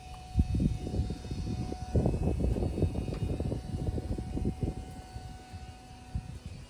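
Electric pressure washer running as siding is rinsed: an uneven low rumble that starts about half a second in, swells, and fades after about five seconds.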